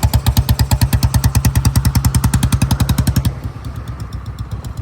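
Royal Enfield Bullet cast-iron single-cylinder engine running with a rapid, even thump of about ten beats a second. About three seconds in it drops quieter and duller.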